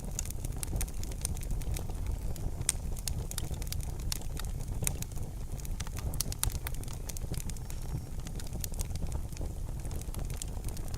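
Wood fire in a fireplace crackling and popping, with many irregular sharp snaps over a steady low rumble of the burning.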